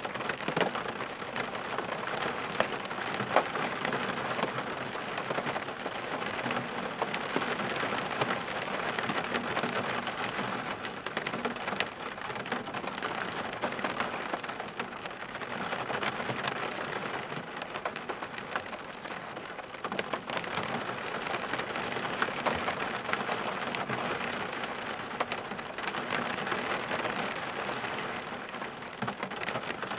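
Steady rain falling, with scattered sharp ticks of single drops on a surface; the rain swells and eases slightly every few seconds.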